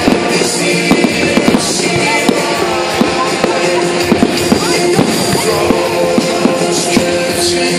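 Fireworks going off in rapid, irregular bangs and crackles over loud, steady music.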